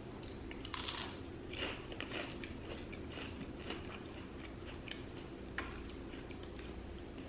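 Close-miked chewing and crunching of crisp fried fast food, a run of small crackles with a few louder bites about a second in, again shortly after, and once more past the middle.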